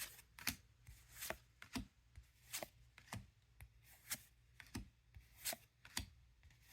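Trading cards being flipped and slid one by one through the hands, giving faint, uneven clicks and snaps about twice a second.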